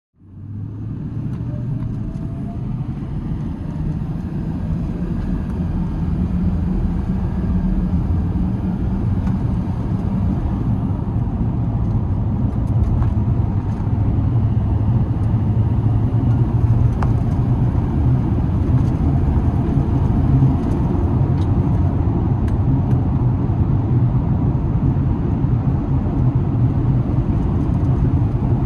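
2007 Chevrolet Silverado 2500HD pickup's engine running steadily, a low, even note.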